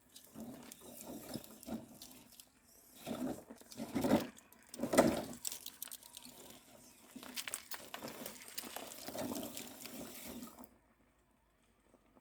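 Traxxas 6x6 RC truck crawling over rough ground: an irregular scrabbling and crackling of tyres and drivetrain, loudest about four and five seconds in, that cuts off suddenly near the end.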